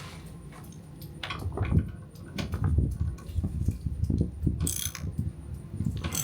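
Hands screwing a metal drain fitting back into a generator's oil drain by feel: scattered small knocks, clicks and rubbing, with a brief hiss about four and a half seconds in.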